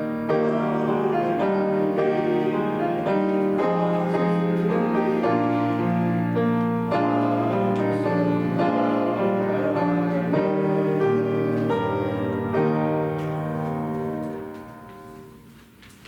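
Keyboard instrument playing slow, sustained chords in church service music, ending on a final held chord that fades away near the end.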